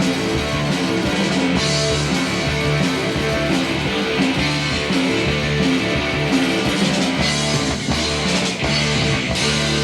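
Live rock band playing an instrumental passage with no singing: guitars, bass guitar and drum kit.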